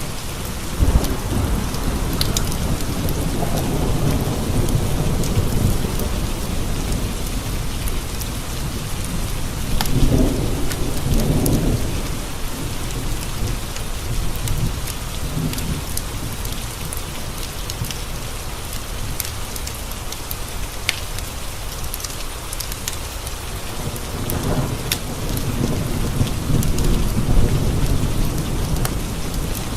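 Steady heavy rain pattering on window glass, with rolling thunder rumbling three times: swelling about a second in, again around ten seconds in, and near the end. Scattered sharp crackles from a wood fire in a stone fireplace sound over the rain.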